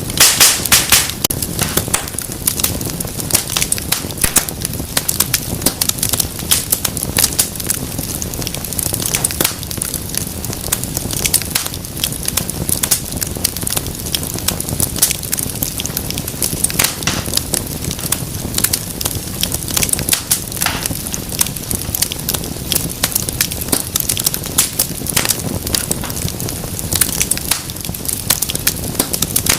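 Wood fire burning in a fireplace, with dense, irregular crackles and pops over a steady low rumble of the flames.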